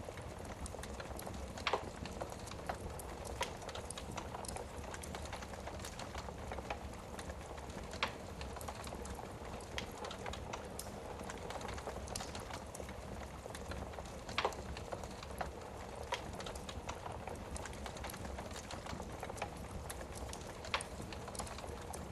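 Wood fire burning in a fireplace: a steady low hiss with constant small crackles and a few sharper pops.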